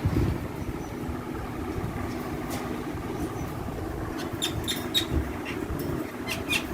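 A steady low rumble with a faint hum. In the second half comes a quick run of short, sharp, high chirps from parrots.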